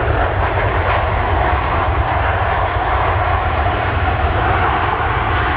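Airliner engines running loud and steady as an aircraft passes close by, an even rushing noise with a deep low rumble beneath it.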